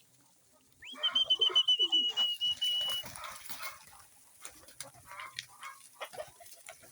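Chickens clucking and calling in a pen, with a loud, high, drawn-out call about a second in that lasts about two seconds, followed by softer scattered clucks.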